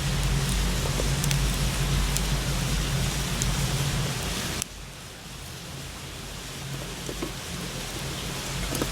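Wood fire burning in a small fire pit: a steady hiss with scattered sharp crackles. About halfway through, the sound drops suddenly to a quieter hiss with occasional pops.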